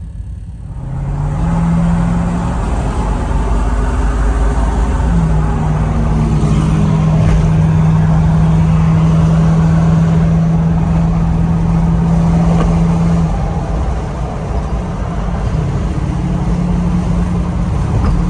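Engine and road noise of a vehicle being driven. The engine drone rises as it picks up speed about a second in, holds steady at cruise, then eases briefly before coming back near the end.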